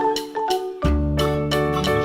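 Cheerful background music: mallet-percussion melody like marimba or glockenspiel over a bass line, with a steady beat.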